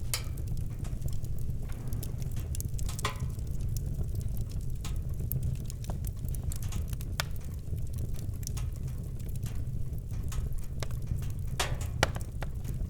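Campfire crackling, with irregular sharp pops and snaps of burning wood over a low steady rumble. One louder pop comes near the end.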